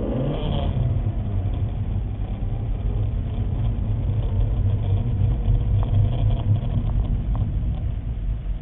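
Car engine running low and steady at light throttle.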